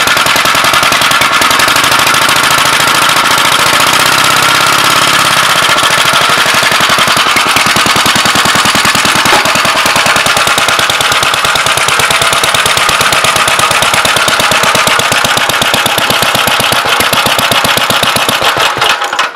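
Gravely L's single-cylinder engine running with fast, even firing strokes, now timed to its Wico magneto, then shut off near the end.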